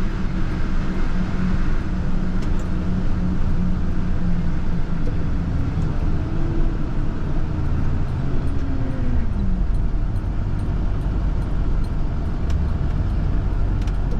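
Plow truck driving, heard from inside the cab: steady engine and road rumble. Between about six and ten seconds in, the engine note rises a little and then drops away.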